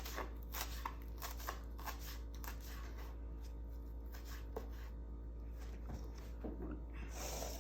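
Fresh mint being cut small for a chicken biryani marinade: a run of quick, irregular crisp cuts, dense at first and thinning out after about three seconds.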